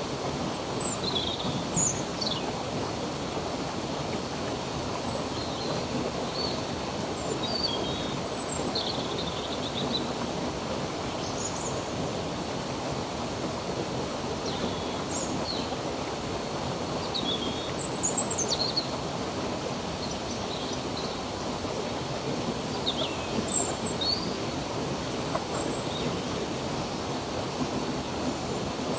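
Steady rush of flowing stream water with birds chirping over it in short, scattered calls.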